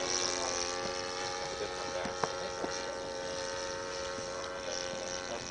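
Small model-airplane glow engine running with a steady, high drone that sags slightly in pitch and fades a little over a few seconds.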